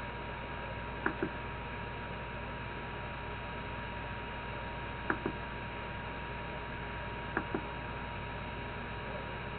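Three pairs of short, sharp mechanical clicks, about a second, five seconds and seven and a half seconds in, each pair a split second apart, over a steady electrical hum with a faint whine.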